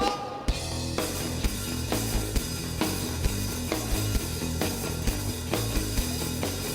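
Live rock band kicking into its opening song right after the count-in: electric guitar and drum kit with a steady, driving beat, starting about half a second in.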